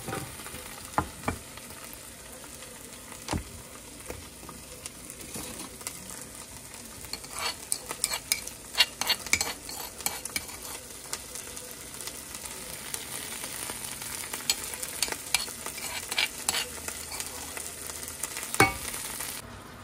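Gulai spice paste sizzling steadily in hot oil in a frying pan. Over it, a metal spoon scrapes and clicks against a stone mortar as crushed chilies are scooped out, in two busy spells about a third of the way in and again near the end, closing with a sharp click.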